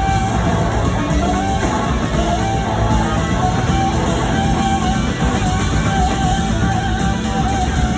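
Live rock band playing, electric guitar and drums, with a lead line of long, wavering held notes over the band.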